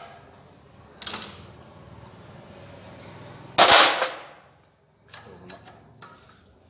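Metal knocks during work on a single-cylinder diesel engine's fuel injector line: a sharp click about a second in, then one loud bang about three and a half seconds in, followed by a few faint knocks.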